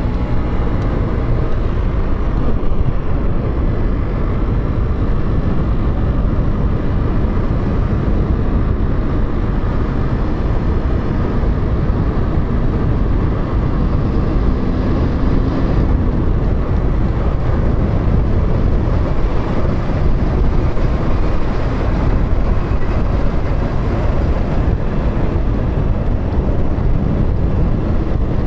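A motorcycle running at steady road speed, its engine and tyre noise mostly buried under wind rushing over the microphone: a dense, steady, rumbling rush with no clear changes.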